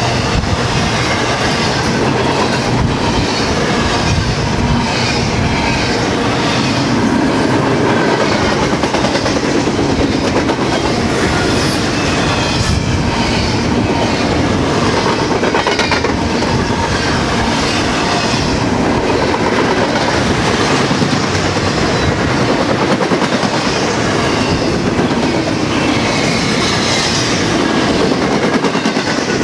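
BNSF train's cars rolling steadily past, with the clickety-clack of the wheels over the rail joints.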